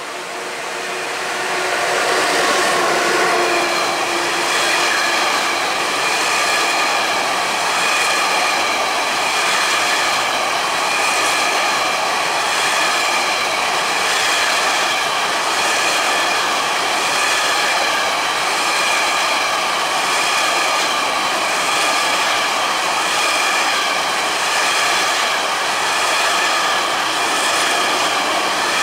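Siemens Vectron electric locomotive passing close by, its tone dropping in pitch as it goes past. A long train of empty intermodal platform wagons follows, rolling by with a steady loud rumble and high ringing tones, pulsing regularly as the wheelsets pass.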